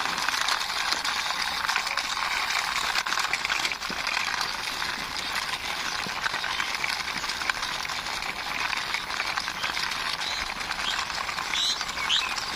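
Toy vehicle's plastic wheels rolling and rattling over a hard rough surface as it is pushed by hand, a steady dense clatter of fine ticks. A few short high chirps come near the end.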